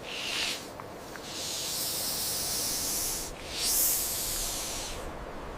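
A snake hissing: one short hiss, then two long hisses with a brief break between them.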